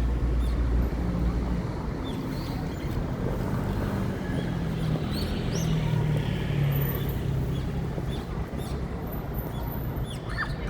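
Birds calling with a few short, high chirps scattered through, over a steady low rumble.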